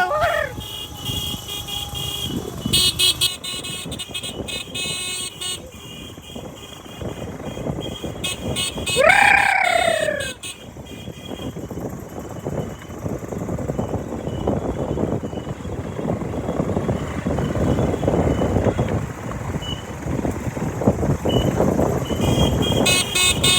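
Motorcycle running on the road, with steady engine, wind and road noise; a short sound falling in pitch cuts in about nine seconds in.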